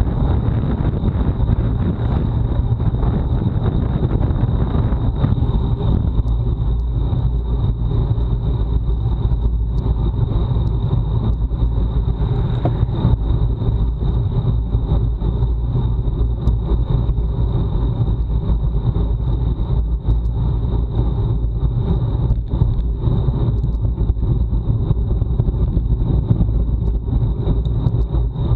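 Wind rushing over a bike-mounted action camera's microphone while riding at race speed: a steady, loud, low rumble, with a thin steady high whine throughout.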